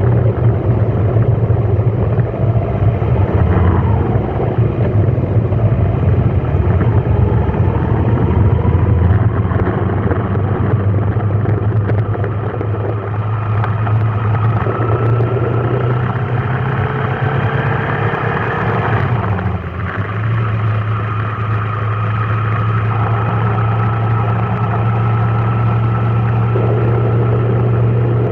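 A vehicle's engine running in slow traffic: a steady low hum with slow rising whines as it pulls forward, and a brief drop about two-thirds of the way through.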